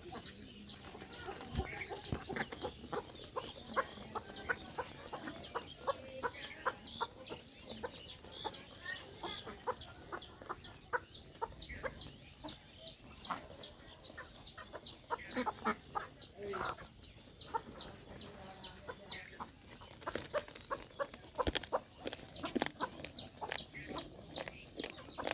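Chickens clucking, with short high calls repeating a few times a second, over many quick taps of chickens and ducks pecking at rice.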